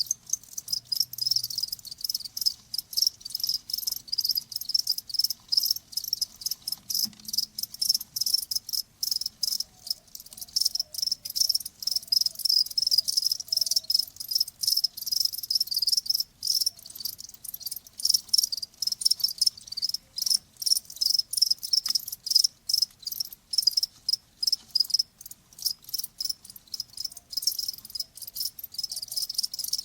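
Crickets chirping in a continuous, rapid pulsing trill, high-pitched.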